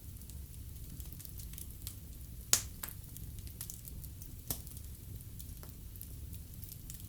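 Wood fire burning in a fireplace: a low steady rumble of flame with scattered sharp crackles and pops, one loud pop about two and a half seconds in and another about two seconds later.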